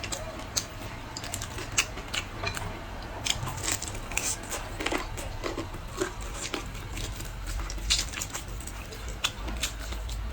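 Close-miked eating: a person biting and chewing food, with irregular crunchy clicks and mouth noises over a steady low hum.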